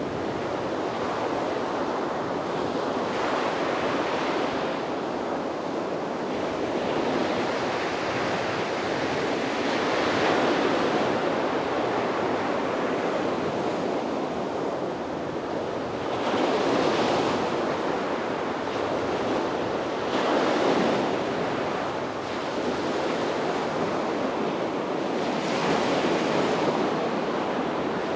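Sea waves breaking and washing onto the beach, a steady surf hiss that swells every few seconds as each wave comes in.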